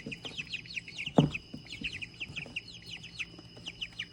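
A pen of birds chirping constantly, with many quick overlapping high chirps that each slide downward in pitch. A single louder, lower call comes about a second in.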